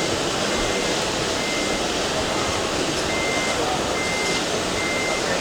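Reversing alarm of an RC model truck beeping: a single high tone in short, evenly spaced beeps about once a second, over a steady background hubbub.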